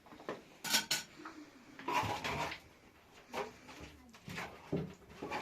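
Dishes and kitchen utensils clinking and knocking as they are handled: two sharp clinks close together under a second in, then scattered knocks.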